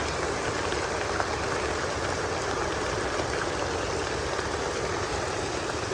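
Heavy rain falling, a steady even rush.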